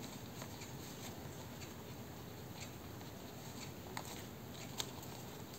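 Faint handling of paper and ribbon in a small room: a few soft clicks and taps over low, steady room noise.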